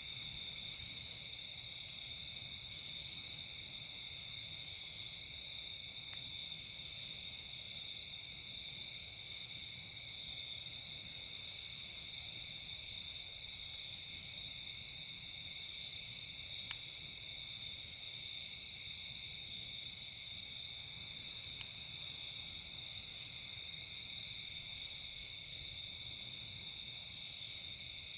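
Steady chorus of night insects, with a higher buzzing call that repeats about every five or six seconds, each lasting a second or so. A couple of faint clicks come through about two-thirds of the way in.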